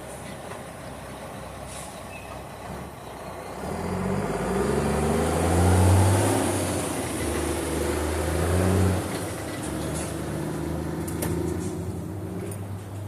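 A heavy vehicle's engine passing close by. It swells in from about four seconds in, is loudest around the middle, and then eases off.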